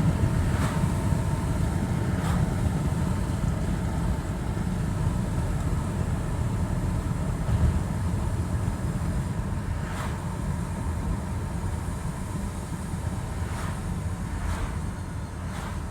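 Volvo XC60 being driven, with a steady low road rumble and a faint steady high tone, broken by several short sharp screeches near the start, about ten seconds in and near the end.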